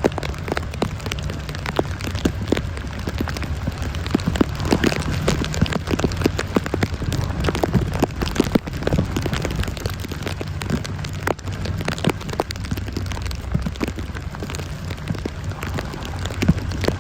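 Heavy rain falling: a dense, irregular stream of sharp drop hits over a steady low rumble of the downpour.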